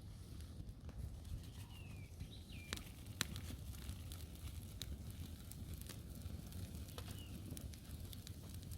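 Firewood campfire burning, crackling with scattered sharp pops, while a small bird chirps briefly a couple of times.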